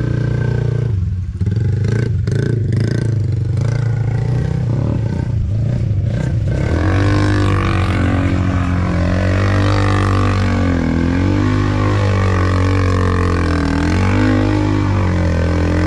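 ATV engine running, with clattering knocks over the first few seconds, then revving up and down from about six seconds in.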